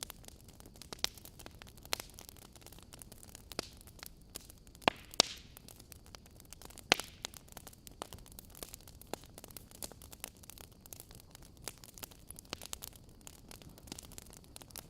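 Wood fire burning in a fireplace: irregular sharp crackles and pops from the logs over a soft steady hiss, with a few louder pops about five and seven seconds in.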